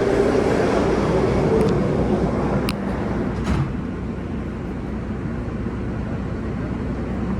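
New York City subway train running on the rails: a steady rumble with wheel and track noise and a few sharp clicks, growing a little quieter about four seconds in.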